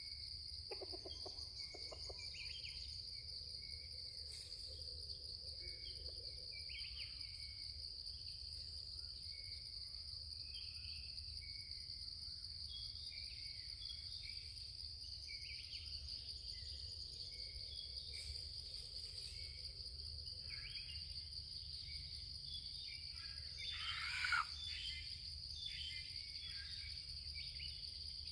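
Insects droning steadily in a high, continuous buzz, with small birds chirping here and there and one louder, brief bird call near the end.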